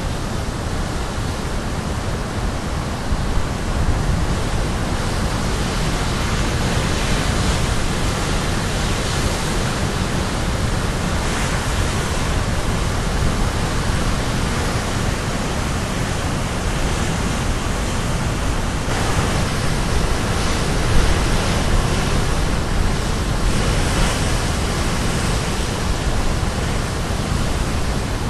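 Sea surf breaking on a shore: a continuous rushing hiss that swells every few seconds as waves come in.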